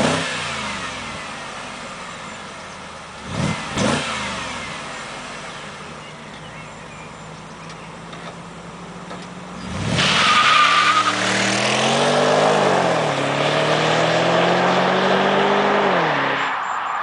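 BMW 650i's V8 engine blipped once, then twice in quick succession, and settling to a steady run. About ten seconds in it is floored on kickdown and pulls hard, rising in pitch, dipping at a gear change, then rising again before dropping off near the end.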